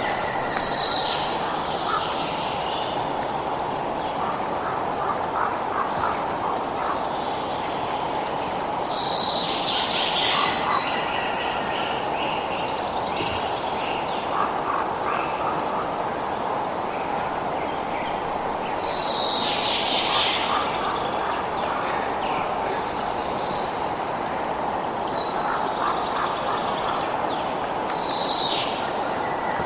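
Birds singing outdoors: every several seconds a phrase of quickly falling high notes, with short repeated lower calls in between, over a steady rushing background noise.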